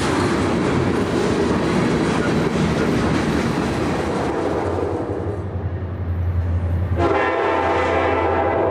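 Covered hopper freight cars rolling past close by, a steady rumble and clatter of wheels on rail. About seven seconds in, it cuts abruptly to the air horn of an approaching Union Pacific SD70ACE-led freight sounding a steady chord at a grade crossing.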